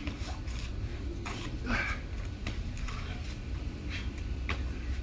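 A person's short, hard exhales and body movements while doing burpees, over a steady low rumble.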